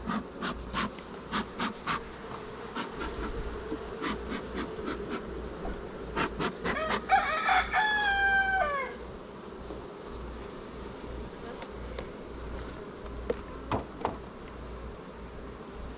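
Honeybees buzzing steadily around an open hive, with scattered short clicks and knocks from wooden frames being handled. About seven seconds in, a rooster crows once, a call of about two seconds that falls in pitch at the end.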